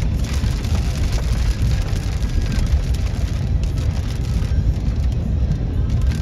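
Heavy rain falling in a severe thunderstorm, a steady hiss with a deep rumble running underneath it.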